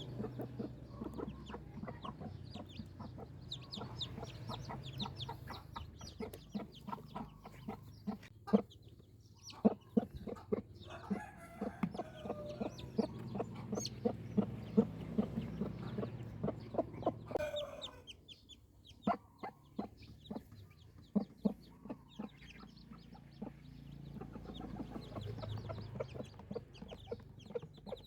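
Chickens clucking with young chicks peeping, and frequent sharp taps throughout. It goes quieter for a few seconds past the middle.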